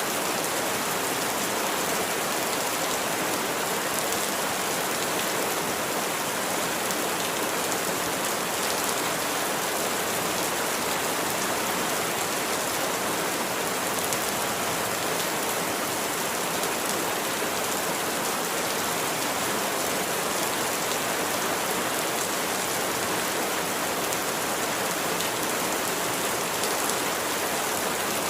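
Rain falling steadily: an even, unbroken hiss of many drops that neither builds nor eases.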